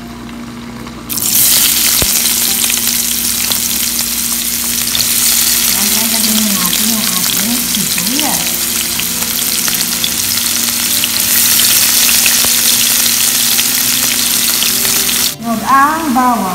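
Chopped red onions sizzling in hot cooking oil in a nonstick pan. The sizzle starts suddenly about a second in as the onions go into the oil, stays loud and steady, and breaks off briefly near the end.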